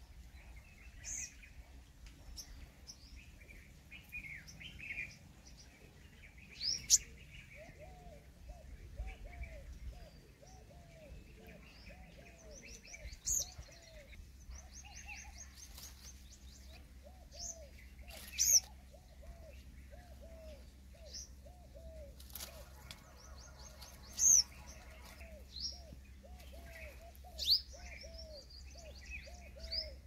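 Several birds calling: loud, sharp high calls every few seconds over a long run of repeated low notes, with quick high trills and a short buzzy rattle a little past the middle.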